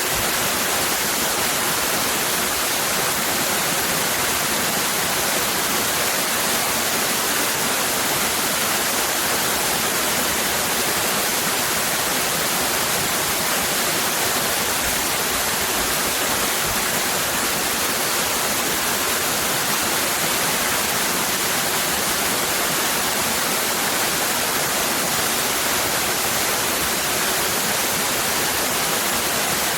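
Water cascading down a waterfall: a steady, even rush with no breaks or changes.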